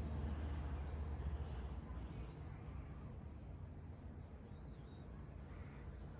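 Small wood fire burning in a rusty can: a quiet, steady low rumble that slowly fades, with a few faint crackles. Faint bird calls sound in the background.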